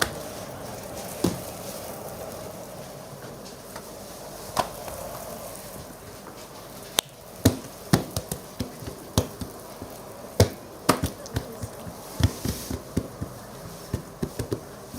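Sharp knocks of a tool striking a board during food preparation: a few spaced strikes at first, then about halfway through a quick, irregular run of two or three a second.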